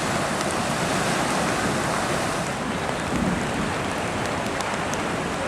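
Fast water of a flooded, swollen creek rushing steadily past, a constant even rush of flowing water.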